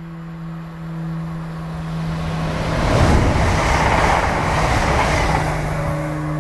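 A train passing through the station: a rushing noise of wheels on rails that builds over the first few seconds, is loudest around the middle, and fades toward the end.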